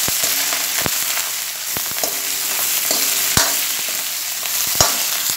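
Green chillies and garlic sizzling in a little hot oil in an aluminium kadhai, with a steady hiss. A metal spoon scrapes and knocks against the pan again and again as they are stirred.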